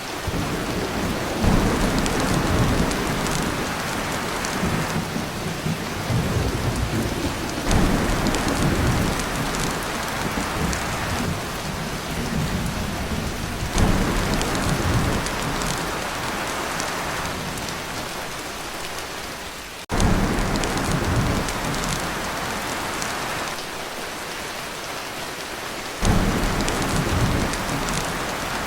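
Heavy rain drumming on a tin roof, with rolls of thunder rumbling in about every six seconds, several of them starting abruptly.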